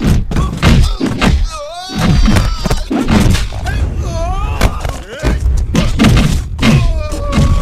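Movie fight sound effects: a rapid run of heavy punch and kick thuds, mixed with grunts and cries from the fighters.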